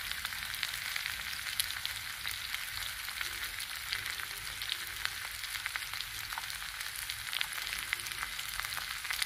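Sliced arbi (taro root) frying in oil in an iron kadhai: a steady sizzle with many small crackling pops.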